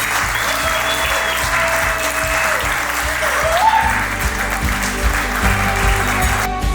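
Wedding guests applauding after a toast, with background music underneath; the applause cuts off abruptly near the end, leaving only the music.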